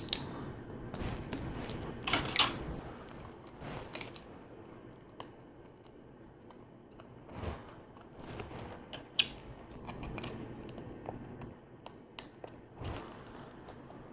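Plastic LEGO pieces clicking and rattling as they are handled and pressed together, in scattered short taps with quiet gaps between.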